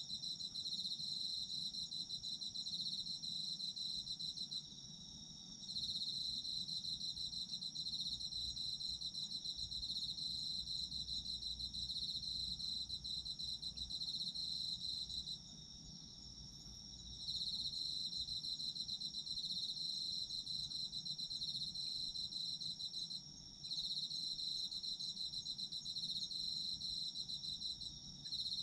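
Autumn crickets chirring in continuous, fast-pulsed high trills, two or more insects at slightly different pitches. The lower trill breaks off for a second or two about three times, about five, fifteen and twenty-three seconds in, while a higher steady trill carries on.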